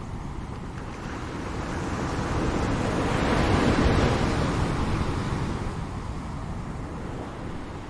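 Ocean waves breaking on a shore: the surf builds over a couple of seconds, peaks about halfway through as a wave crashes, then washes back down to a low steady rush.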